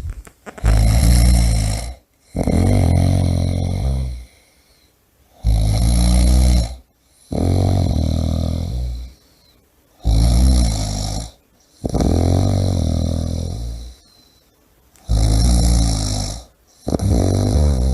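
A person snoring loudly in a steady rhythm. Each breath is a pair of snores, a shorter one and then a longer one, followed by a pause, four times over at about four and a half seconds apart.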